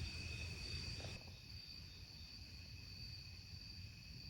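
Night insect chorus, a steady high-pitched chirring at two constant pitches, over a faint low rumble of outdoor background noise. The overall level dips slightly about a second in.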